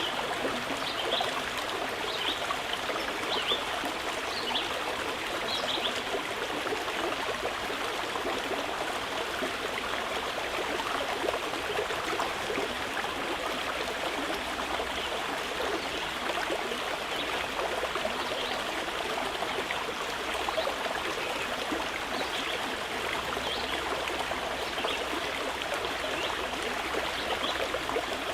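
Mountain river rushing steadily over rocks, with short high bird chirps now and then, a few in the first seconds and more scattered through the second half.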